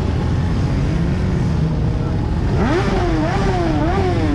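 Steady vehicle rumble; about two and a half seconds in, an engine starts revving, its pitch swinging up and down in quick repeated swells.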